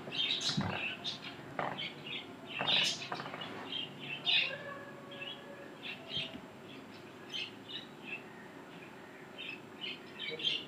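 Small birds chirping in the background, many short high chirps at irregular intervals, with two brief rustling noises about half a second and three seconds in.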